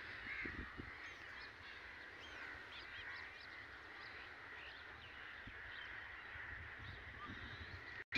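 Faint outdoor ambience of birds calling: many short, scattered chirps over a low rumble.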